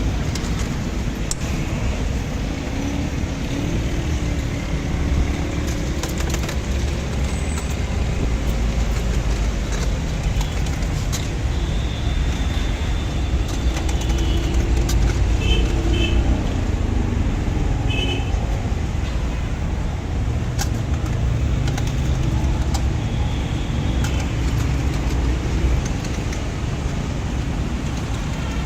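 Steady low rumble of motor traffic, with a few short high beeps about halfway through.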